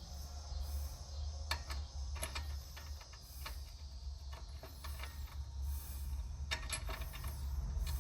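Scattered light metallic clicks and clinks of hand tools and small mower parts being handled, over a steady low hum.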